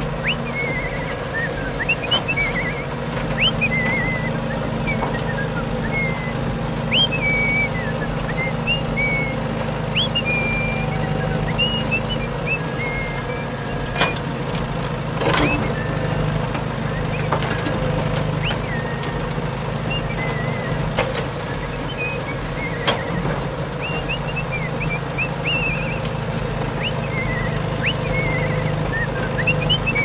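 Short high chirps, as of small birds, scattered throughout over a steady low hum, with a few sharp clicks.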